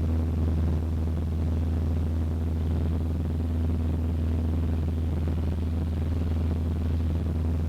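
Cessna 152's four-cylinder Lycoming engine and propeller droning steadily in flight, heard from inside the cabin.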